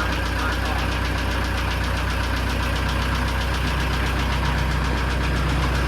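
Tractor engine idling steadily after a cold-weather start, with an even, fast knocking beat.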